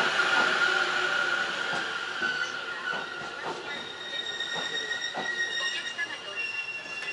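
Train running noise with a high wheel squeal that fades away over the first few seconds, a few clicks, then several high steady tones come in about four seconds in.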